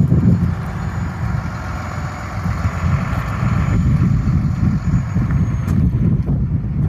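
Diesel engine of a Hino 268 dump truck idling with a steady low rumble.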